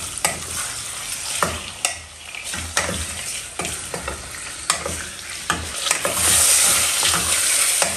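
Sausages and garlic sizzling in a stainless steel pot while a wooden spoon stirs them, knocking against the pot every second or so. The sizzle grows louder near the end.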